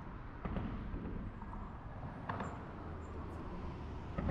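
Road traffic: a steady low rumble of passing vehicles, with a couple of short knocks about half a second and two seconds in.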